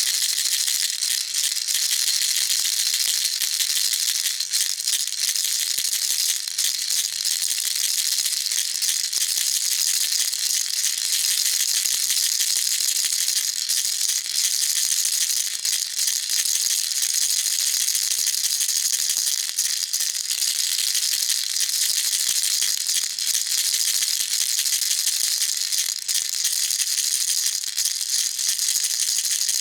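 Baby rattle shaken continuously: a steady, unbroken, mostly high-pitched rattling.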